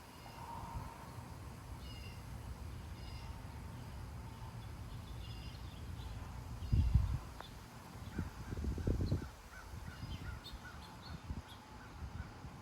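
Gusty wind rumbling on the microphone, with two stronger gusts about seven and nine seconds in, while birds call with short chirps in the background.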